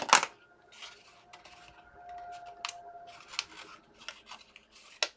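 Handling of die-cutting gear on a desk: two sharp clacks at the start, then scattered light clicks and taps as plates, the die and a tray are moved about, with a faint steady tone for a second or two in the middle.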